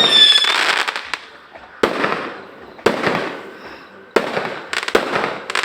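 Consumer fireworks going off in a series: sharp bangs roughly once a second, with several close together near the end, each followed by a fading crackle. A brief high whistle sounds at the very start.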